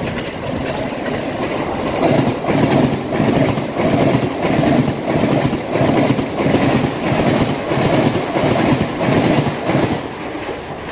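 Mumbai suburban electric local train passing at speed, its wheels clattering over rail joints in a steady rhythm of about one and a half beats a second. The noise builds for the first couple of seconds and eases off near the end as the last coaches go by.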